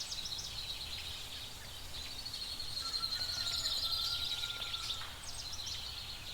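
Outdoor ambience of small birds chirping and twittering, busiest in the middle, over a faint low rumble.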